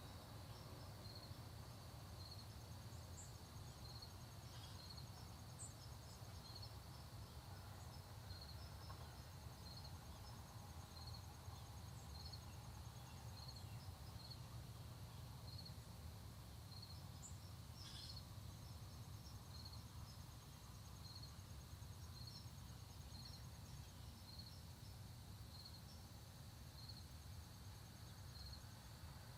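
Faint, steady chorus of late-summer insects: one continuous high trill pulsing about once a second, with a fainter, faster-pulsing trill above it. A few brief bird chirps over a low, steady rumble.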